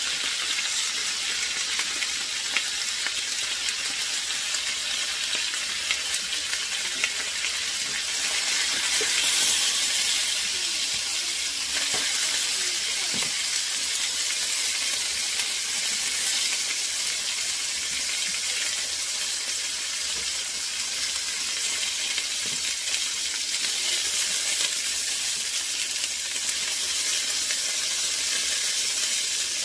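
Chicken breast pieces browning in hot oil in a wok, a steady sizzle, with occasional light clicks of metal tongs against the pan as the pieces are turned and lifted out.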